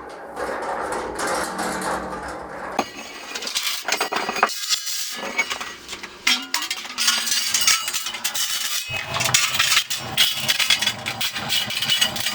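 Chicago Electric steel welding cart rolled about on its casters, its metal frame rattling and clinking, with a steady rolling noise and many small knocks.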